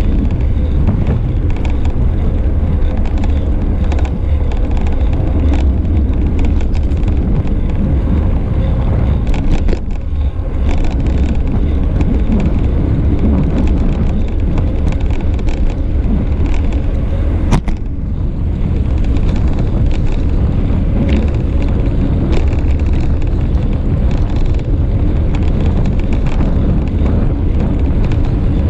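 Wind buffeting the microphone of a bicycle-mounted action camera while riding, a steady low rumble, mixed with road and traffic noise. Scattered clicks and rattles, with one sharp click about two-thirds of the way through.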